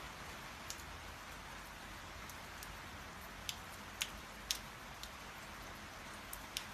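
Steady hiss of light rain falling, with a handful of sharp ticks scattered through it, most of them in the second half.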